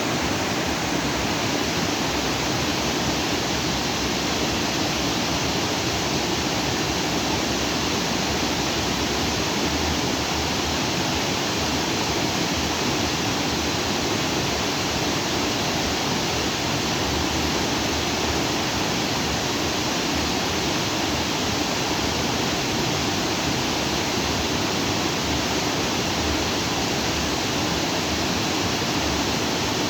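Stream water rushing and splashing over rocks, a steady full rush without break.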